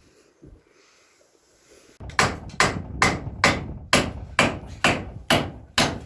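Hammer blows, about two a second, starting suddenly about two seconds in, with the first two seconds quiet. Most likely a nail being driven into wood.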